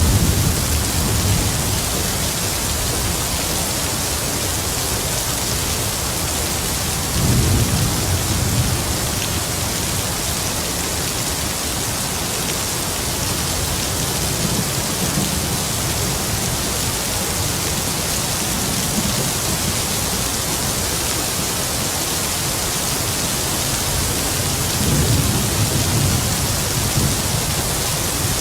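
Heavy rain falling steadily with distant thunder: low rumbles swell at the start, again about a quarter of the way in, and once more near the end.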